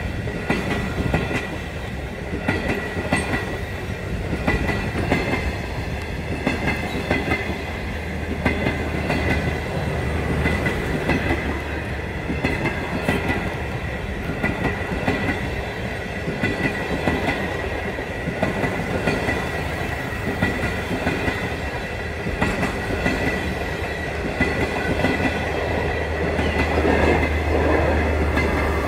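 Stainless-steel passenger train passing close by, its wheels clacking regularly over the rail joints above a steady rumble. A thin, steady high whine runs through, with a low hum that grows louder near the end as the last carriage goes by.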